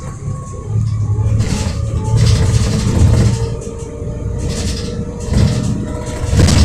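Diesel engine of a Volvo B7RLE single-deck bus running, a low rumble that rises and falls in loudness, with a faint steady whine above it.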